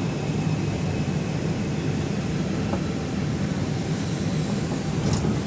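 Steady hum and rush inside an R142 subway car standing at a station, with no sharp events.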